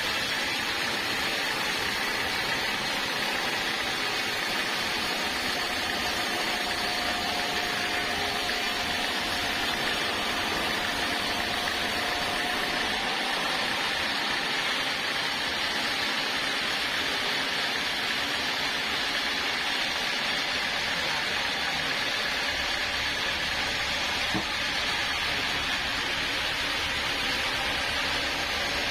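Sawmill saw running steadily as it saws a large log into planks: a continuous machine noise with a faint steady whine, no breaks.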